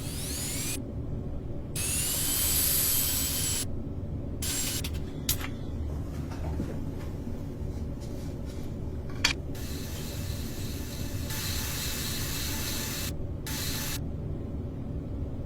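Workshop power tools at work on a car body: a tool whines as it spins up, twice near the start, and stretches of hissing noise cut in and out abruptly over a steady low rumble, with a couple of sharp clicks.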